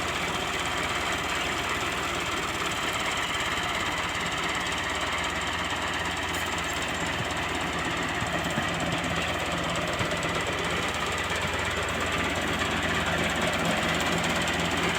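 Tractor's diesel engine running steadily, a little louder near the end.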